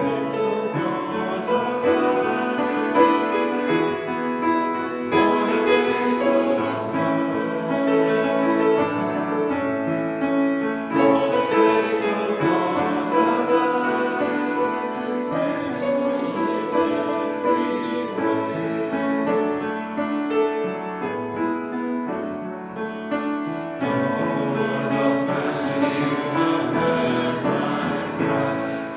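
Congregation singing a hymn together, accompanied by piano.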